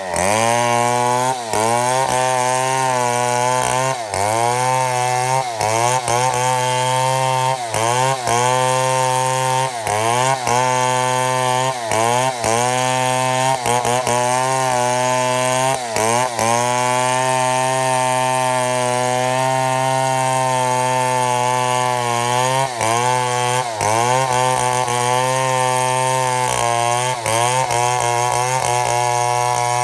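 Chainsaw running at high revs under load as it mills a mahogany log lengthwise into slabs. The engine pitch dips briefly and recovers every couple of seconds as the cut loads it, and holds steadier in the middle.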